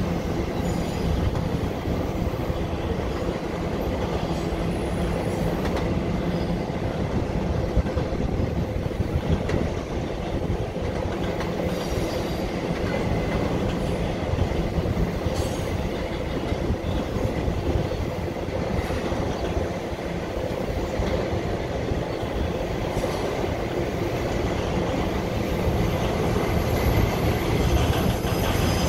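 Autorack freight cars rolling steadily across a steel girder railroad bridge: a continuous rumble and clatter of wheels on rail, with a few sharp clacks. Faint thin wheel squeal runs through it.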